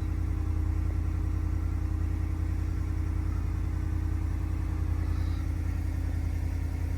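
Ford F-150's 5.0-litre V8 idling steadily with a low, even hum.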